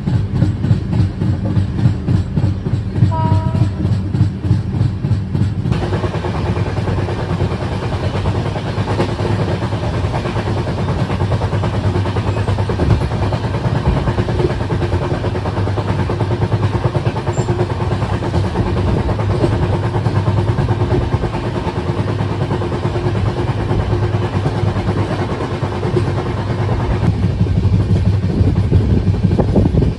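Indian Railways passenger train running along the track, heard from on board: a steady rumble of the coaches with wheel clatter. A brief tone sounds about three seconds in.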